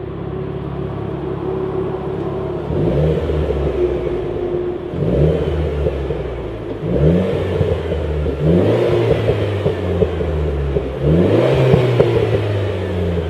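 Renaultsport Clio 200's 1.6-litre turbocharged four-cylinder through a Supersprint aftermarket exhaust, running steadily at first and then, about two and a half seconds in, revved up and dropping back over and over.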